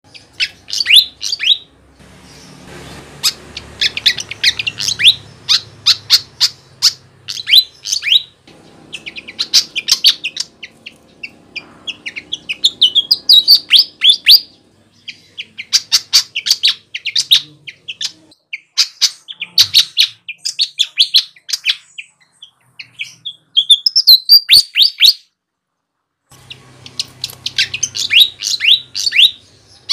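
Flycatcher (sikatan) singing vigorously: rapid bursts of high, sharp chirps, each phrase a second or two long, separated by short pauses. The sound cuts out completely for about a second and a half around 25 seconds in.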